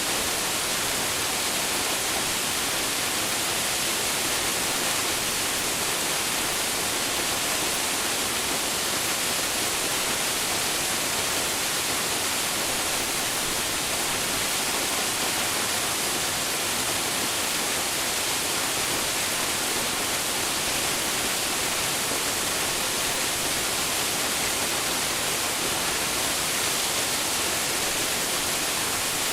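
Waterfall pouring steadily: a constant, even hiss of falling water, strongest in the high register, with no breaks or changes.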